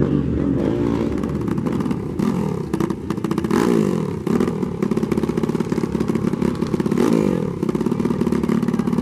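Dirt bike engines revving, several at once, their pitch climbing and dropping again and again.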